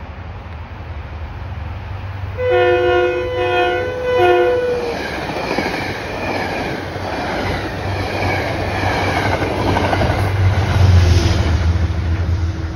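Metro-North commuter train sounding its horn in a blast of about two seconds, one note held while the others pulse three times. It then passes through the station with a rush of wheel and rail noise and a deep rumble that grows loudest near the end.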